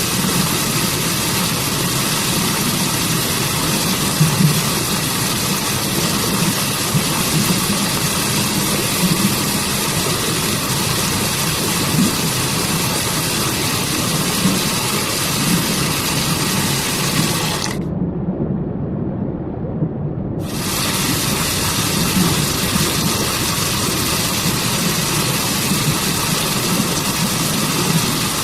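Rushing water of a waterfall and forest stream, a steady even hiss with a low rumble underneath. About 18 seconds in, the hiss cuts out for about two and a half seconds, leaving only the low rumble, then comes back.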